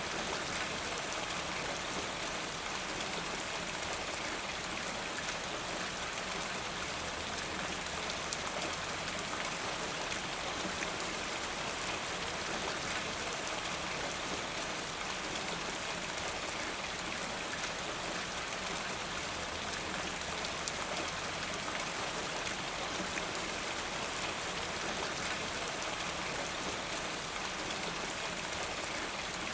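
Steady rain falling, a constant hiss of many drops with fine patter on a surface.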